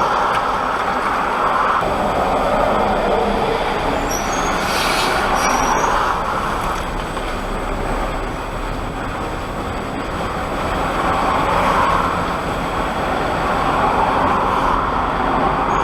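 Heavy goods vehicle driving, its engine and road noise heard inside the cab, swelling and easing over the seconds, with a brief hiss about five seconds in.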